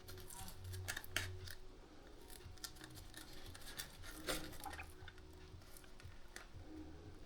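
Scattered light clicks and taps of small tools and parts being handled on a workbench, over a faint low hum.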